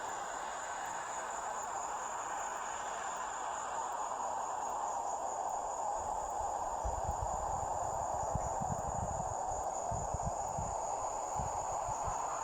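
Insects trilling in one steady, unbroken high tone over a steady rushing noise. Low, irregular rumbles come in about halfway through.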